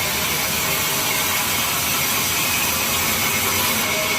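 Sawmill saw machinery running steadily, an even mechanical noise that holds one level throughout.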